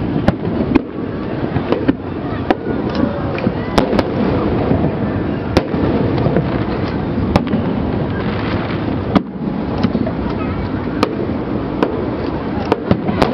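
Fireworks display: many sharp bangs and cracks of bursting shells at irregular intervals over a continuous rumble of the show.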